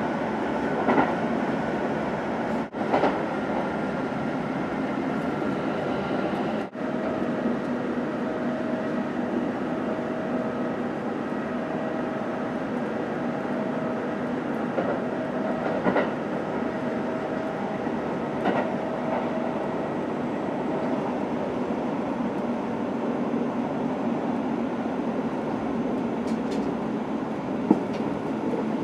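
Running noise of a Kintetsu limited express train at speed, heard from inside the passenger car: a steady rumble and hum with a few faint steady tones and a few short clacks from the wheels on the track.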